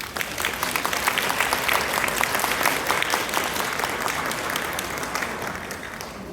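Audience applauding: the clapping starts suddenly, swells, then tapers off toward the end.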